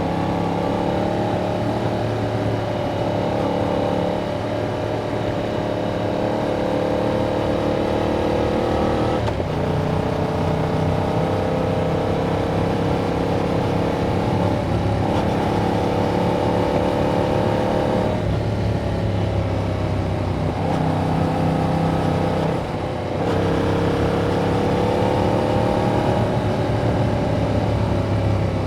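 Yamaha MT-07's parallel-twin engine through its stock exhaust while riding. The revs climb gently and then drop back sharply about five times.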